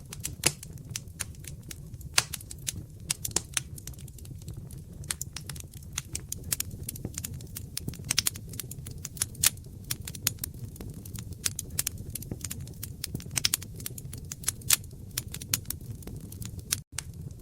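Wood fire crackling: irregular sharp pops and snaps over a low, steady rumble, with a split-second break in the sound near the end.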